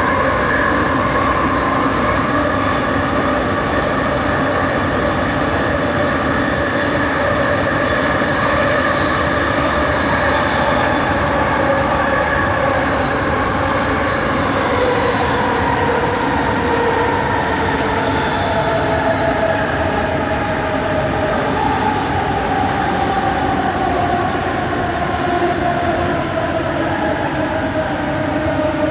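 Interior running noise of a Bombardier Innovia ART 200 metro train under way, with the whine of its linear induction motors. Several whining tones drift in pitch, sliding slowly downward through the second half.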